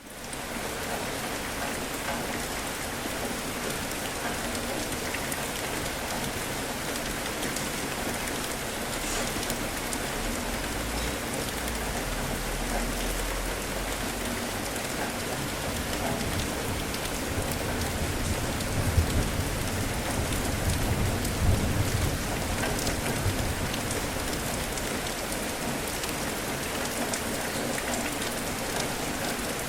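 Steady rain falling hard on surfaces during a thunderstorm, with low thunder rumbles swelling in around the middle, the loudest a little past the two-thirds mark.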